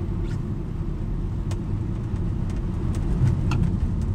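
Steady low drone of a car driving, heard from inside the cabin: tyre and engine rumble, with a few light ticks scattered through it.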